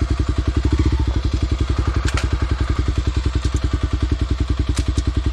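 Mini dirt bike engine idling with a steady, rapid, even putter; it is still running, not stalled. A couple of faint clicks sound over it.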